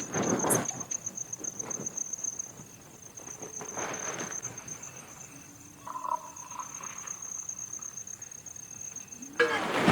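A cricket trilling steadily, one high, finely pulsed note that stops shortly before the end. Rustling and handling noises sound over it, loudest in the first second and again near the end.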